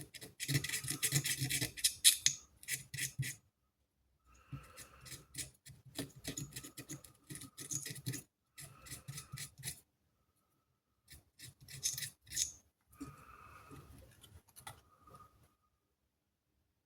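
Rapid scrubbing and scraping strokes on the PS5 Slim power supply's circuit board, cleaning off the burn mark left by a blown capacitor. The strokes come in three bursts with short pauses between.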